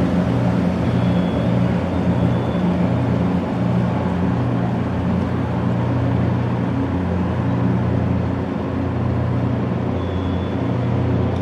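Ferry's diesel engine running steadily, a low even drone with no change in speed.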